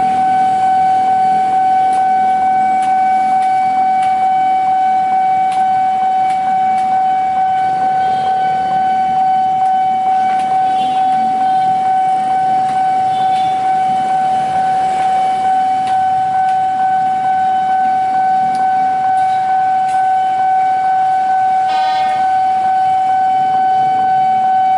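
Railway level-crossing alarm sounding one steady, unbroken high tone.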